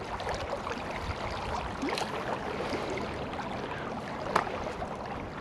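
River water running over rocks, a steady rushing flow, with a single sharp click a little over four seconds in.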